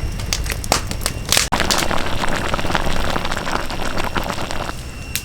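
Sharp clicks and knocks at a meal table, with a crackling hiss that starts abruptly about a second and a half in and cuts off about three seconds later.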